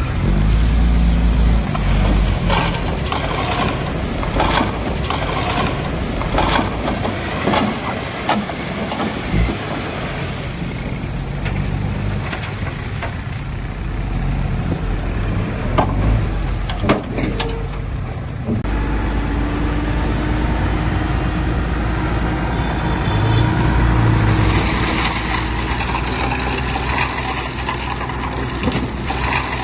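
Heavy diesel earthmoving machinery running under load, with scattered knocks and clanks of soil and rock. The sound changes abruptly about two-thirds of the way through.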